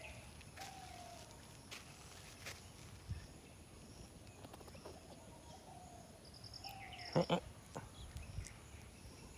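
Faint outdoor ambience with birds calling: a few short falling whistles and a louder short call about seven seconds in.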